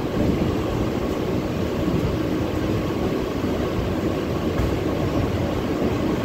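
Mumbai suburban local train running along the track, heard from aboard: a steady low rumble of wheels on rails.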